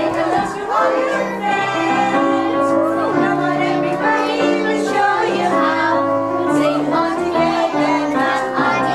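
A group of young children singing a song together over a steady instrumental accompaniment of held notes that change in steps.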